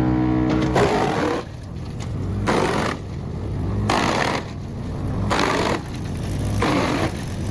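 Wood chipper's engine running while it chews wood, the sound surging and easing every second or so.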